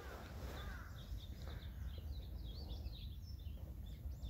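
Small birds chirping in quick, repeated high calls over a low, steady rumble.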